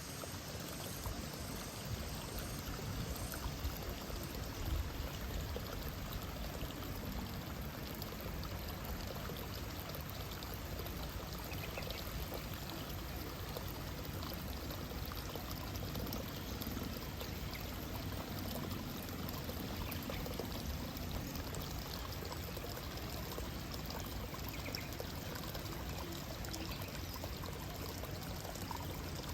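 Steady sound of running water, even and unbroken throughout.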